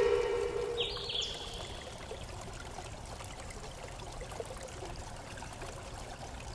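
Steady flowing stream water, with a bird's short high chirp about a second in. At the very start a struck ringing tone with several overtones fades out over about a second and a half.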